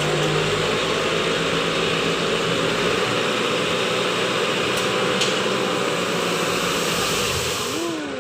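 Dump truck's diesel engine running loudly and steadily with a dense noisy rush. Its low engine note drops away about three seconds in, and the sound fades near the end.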